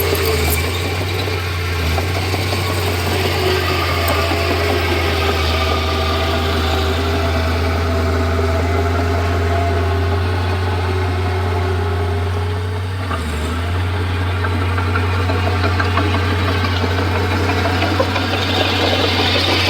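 Komatsu D31P bulldozer's diesel engine running steadily, with a short dip in level about two-thirds of the way through.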